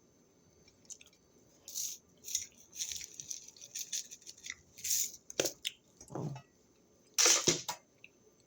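Close-up chewing of a raw vegetable snack: a series of wet, squishy mouth sounds and crunches, with the loudest bite near the end.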